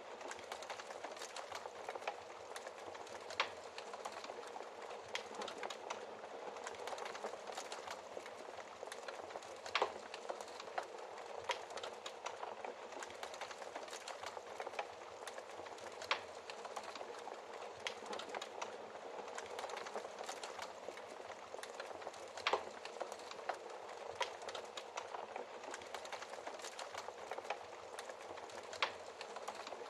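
Wood fire burning in a fireplace: a steady soft hiss with irregular crackles and pops, a few sharper snaps standing out.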